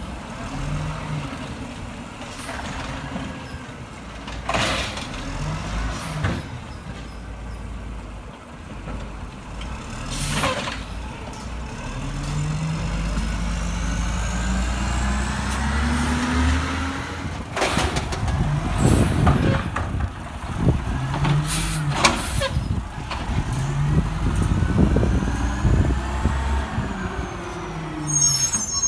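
Garbage truck's diesel engine revving up and down repeatedly, with several short, sharp air-brake hisses.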